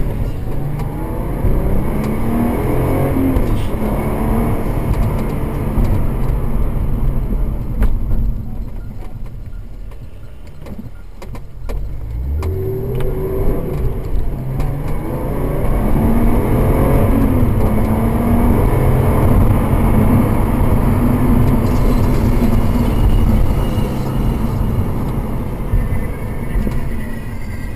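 Subaru Legacy's 3.0-litre EZ30 flat-six engine, heard inside the cabin, accelerating hard through the gears of its six-speed manual, with road noise. The engine note rises in several pulls with short drops between them, goes quieter about ten seconds in as the car eases off, then pulls up again and holds a steady high run.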